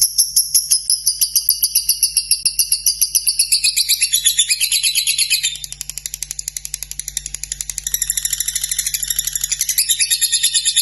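Lovebird singing a long, unbroken chattering trill: rapid, evenly spaced high-pitched notes, the long-lasting 'ngekek' song. It softens a little about halfway through and then builds again.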